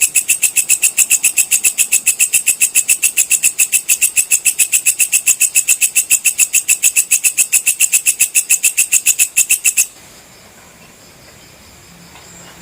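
Walang kecek (belalang kecek) insect calling in a fast, even, high-pitched pulsing chirr of roughly eight pulses a second. It cuts off suddenly near the end, leaving only faint high chirps.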